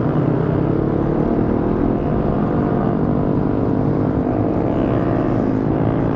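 Motorcycle engine running steadily while riding, heard from the rider's own bike, with wind noise on the microphone.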